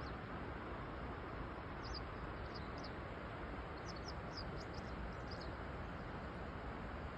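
A small bird chirping in short high notes, a couple about two seconds in and a quicker run about four to five and a half seconds in, over a steady outdoor background rush.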